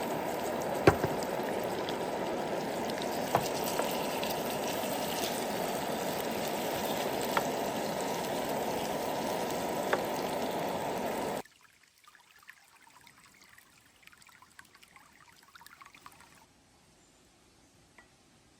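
Steady rush of flowing water with a few sharp clicks over it, cutting off abruptly about eleven seconds in; faint rustling follows.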